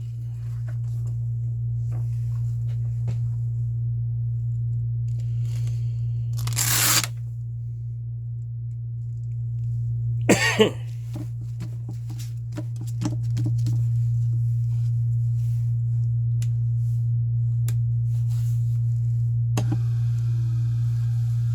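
Electric motor of a knife-sharpening grinder running with a steady low hum during 1200-grit final edge work. There are two short scraping bursts about 7 and 10 seconds in, and near the end a click followed by the pitch sliding as the motor's speed changes.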